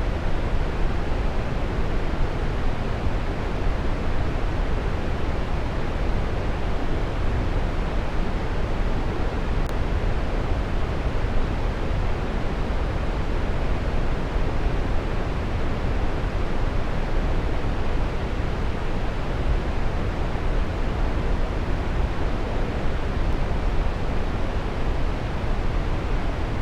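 Waterfall: a steady rush of falling water, deepest in the lows, with no breaks or changes.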